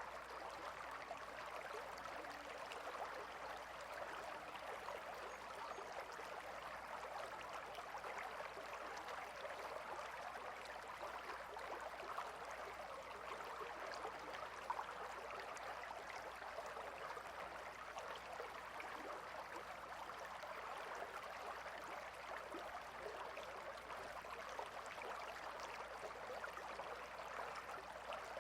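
Gentle river flowing steadily: an even rush of water with an occasional faint small splash.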